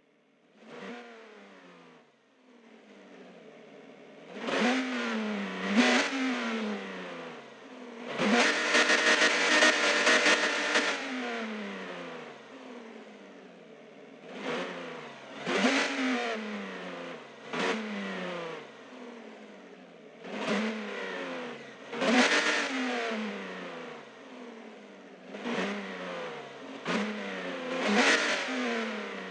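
An engine revved again and again in short throttle blips, each rising quickly in pitch and falling back slowly, with one longer hold at high revs about eight seconds in.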